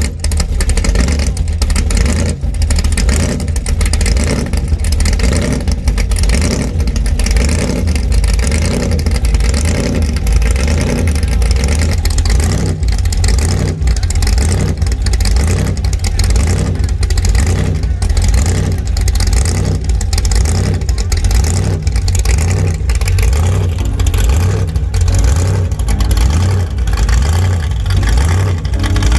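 Chevrolet 454 big-block V8, bored .030 over and built to about 700 hp, in a 1963 Chevy Nova, running loud with a deep rumble and an uneven, choppy pulse.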